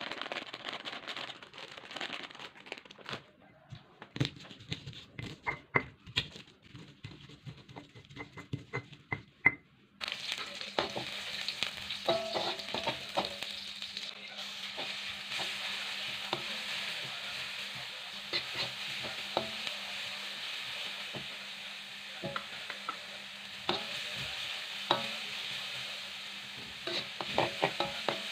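For about ten seconds, sharp irregular knocks and grinding of a stone pestle crushing chilies, shallots and garlic in a stone mortar. Then a steady sizzle of shallots and spice paste frying in hot oil in a metal wok, with a metal spatula scraping and clinking against the pan as it stirs.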